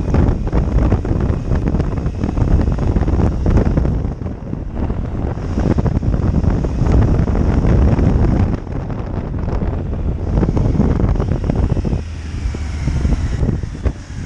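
Wind buffeting the microphone on a moving motorcycle, over the low rumble of its engine. The wind noise eases about eight seconds in and again near the end, leaving a steadier engine hum.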